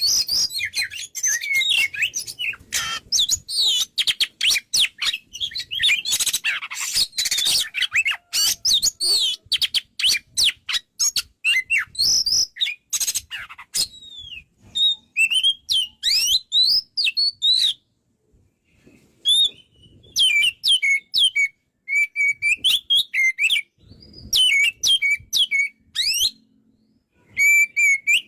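Oriental magpie-robin in full, continuous song: rapid, varied chirps and whistled glides. The song is dense for the first half, then breaks into shorter phrases with brief pauses between them.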